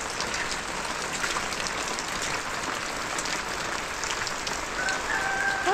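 Steady rain falling, an even hiss with scattered faint drop ticks. A short, steady high tone sounds near the end.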